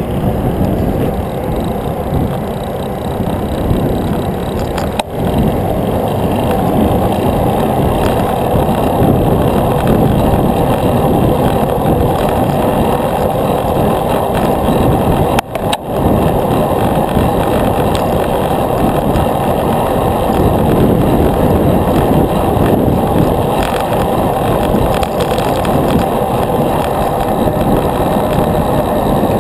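Loud, steady rumbling noise of wind and road heard while riding a bicycle, cutting out briefly twice.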